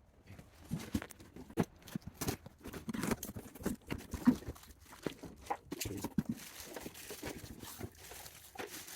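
Irregular knocks, clicks and rustling of objects being handled, with no motor running.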